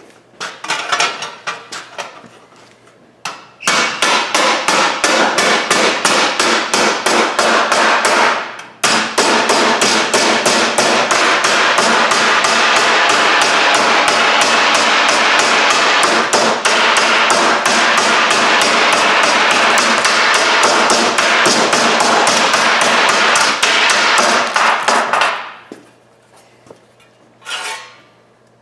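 Hammer pounding a sheet-steel panel to shape it: a few loose knocks, then a long run of quick, even blows several a second, with one short break about a third of the way through, stopping a few seconds before the end.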